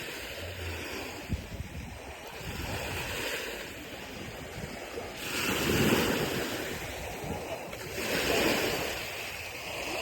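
Ocean surf washing onto the beach, with the wash swelling twice in the second half, and wind buffeting the microphone.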